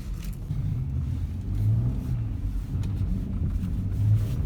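Car engine running with a low rumble, its note rising and falling as it revs up about two seconds in and again near the end.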